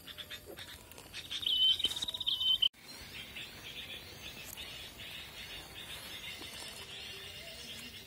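Sirtu (kapasan) triller calls: a loud, rapid trill about one to two and a half seconds in that breaks off suddenly, then a steady stream of fainter repeated chirps.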